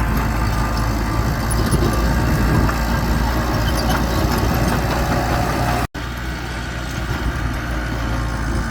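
Diesel engine of heavy earthmoving machinery running steadily with a low hum. The sound drops out for an instant about six seconds in.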